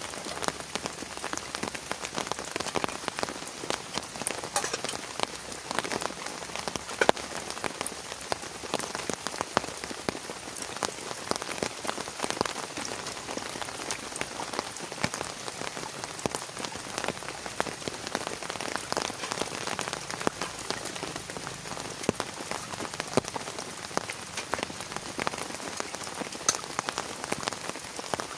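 Heavy rain falling steadily, with many sharp individual drop strikes close by.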